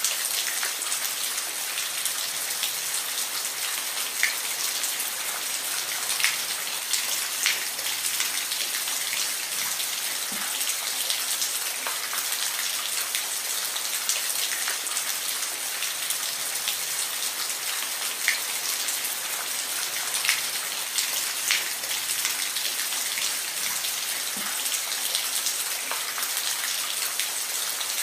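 Steady rain falling, an even hiss with distinct drops ticking on a surface every second or so.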